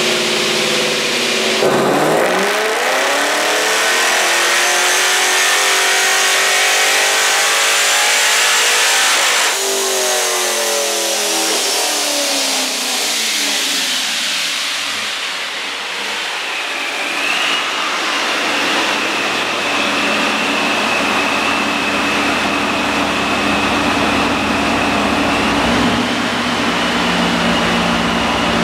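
Supercharged LSX 376-B15 V8 in a C6 Corvette making a full-throttle pull on a chassis dyno. About two seconds in the engine note jumps and climbs steadily for about eight seconds, with the ProCharger's high whine rising along with it. It then lets off abruptly, winds down over several seconds and settles to idle with a steady high whine.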